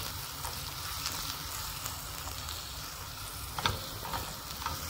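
Chopped ginger, garlic and spring onion sizzling in hot oil in a wok on high flame, stirred with a silicone spatula. A few clicks of the spatula against the pan, the sharpest about three and a half seconds in.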